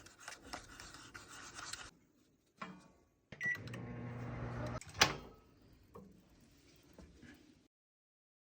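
Microwave oven: a short beep, then the oven running with a steady hum for about a second and a half, cut off by a sharp click. Scratchy handling noises come before it.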